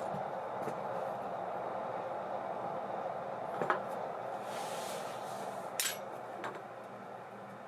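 ABU Ambassadeur 2500C De Luxe baitcasting reel spinning freely with a steady whir that slowly fades as it runs down, tuned with its oil cut to a minimum for the least resistance. A few light metallic clicks and a short hiss come through the second half.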